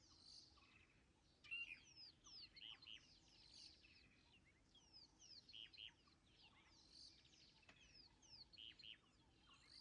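Faint chorus of small birds chirping: many short, quick, downward-sweeping calls, several birds overlapping.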